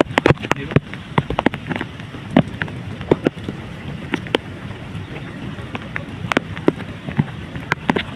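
Heavy hurricane rain and gusting wind with a steady rushing noise, broken by many irregular sharp taps and cracks.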